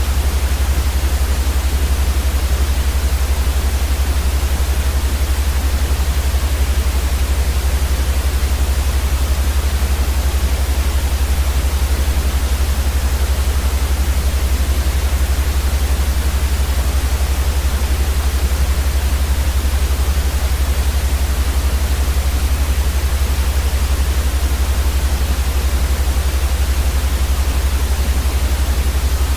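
Steady, unchanging white noise with a strong low rumble underneath, played as a sleep sound for babies.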